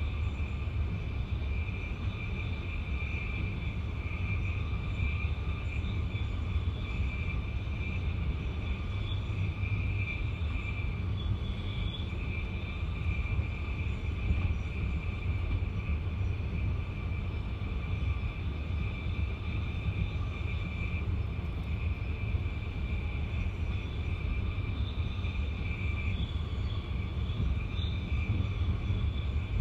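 Passenger train running steadily at speed, heard from inside the carriage at the window: a continuous low rumble of wheels on rail with a steady high-pitched tone over it.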